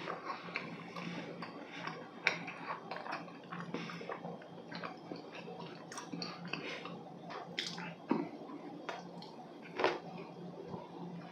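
Close-miked chewing of Korean walnut cakes (hodu gwaja): soft wet mouth smacks and small clicks, with a few louder smacks in the second half, over a faint steady hum.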